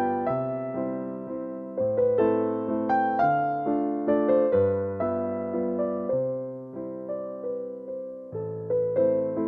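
Soft background piano music: gentle single-note melody over sustained low chords, each note struck and fading away.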